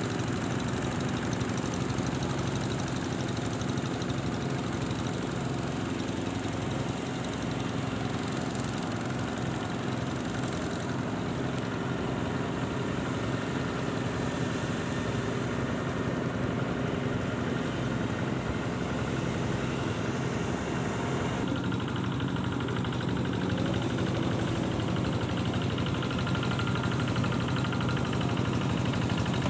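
A motor engine running steadily at an even idle-like speed.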